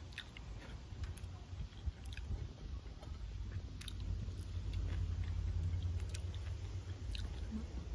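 Chewing and mouth sounds of a person eating with her fingers, with scattered small clicks and smacks over a low rumble.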